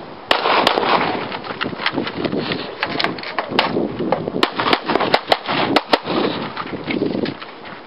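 A string of more than a dozen gunshots fired at uneven, quick intervals, a competitor shooting a timed stage right after the start signal, over a steady noisy rush.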